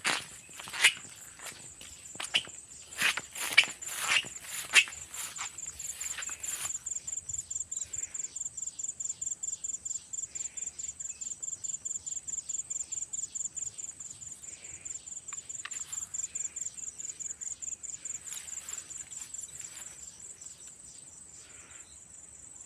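Footsteps for the first several seconds, then an insect chirping in a steady, high-pitched pulsed trill, about five pulses a second.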